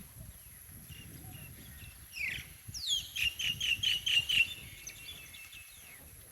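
A bird singing: a sweeping note, then a quick run of about seven repeated notes, trailing off into a few faint ones.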